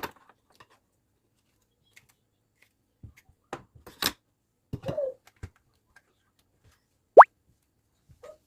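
Scattered light clicks and knocks, with one short, loud squeak rising sharply in pitch about seven seconds in.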